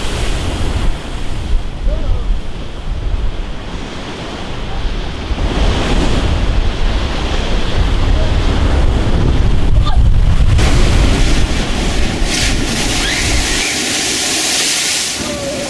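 Stormy sea waves crashing under strong wind buffeting the microphone with a heavy rumble. Near the end the rumble drops away and a loud, high, steady hiss takes over.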